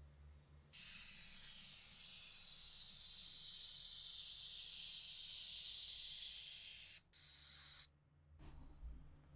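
Pressurised spray hissing: one long burst of about six seconds, a very brief break, then a short second burst.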